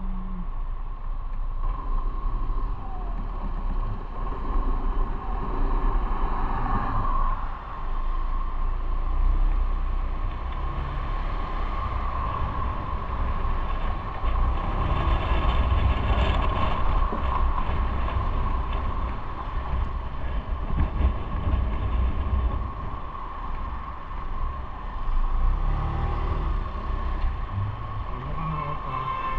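Motorcycle riding along the road: the engine runs steadily with a deep rumble of road and wind noise, the level rising and falling a little.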